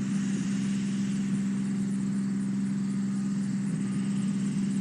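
A steady mechanical hum at one unchanging pitch, like an engine or motor running evenly at idle.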